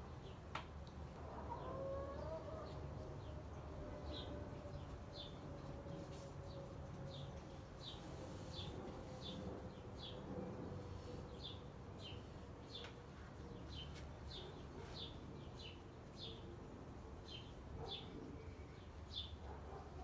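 A small bird chirping over and over, short high chirps at about one to two a second, beginning a few seconds in, over a faint steady low hum.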